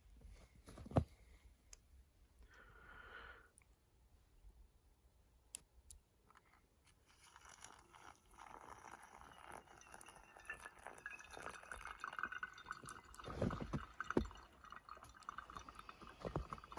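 Water being poured and dripping, with small clinks and knocks, loudest in the second half.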